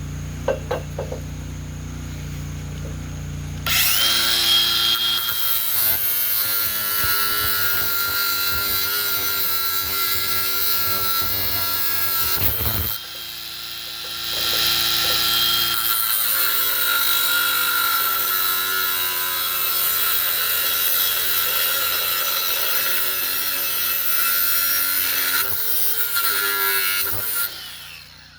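Electric power tool cutting into steel pipe, with the motor's pitch wavering under load. It runs for about nine seconds, stops briefly, then runs again for about thirteen seconds.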